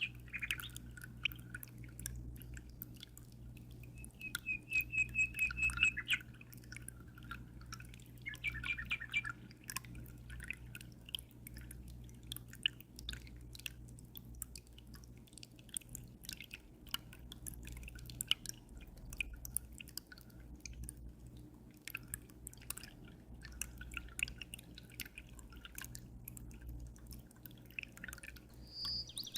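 Water dripping and trickling in an aquarium, a dense run of irregular small drip sounds over a steady low hum. Small birds chirp on and off, with a quick, even trill about four seconds in.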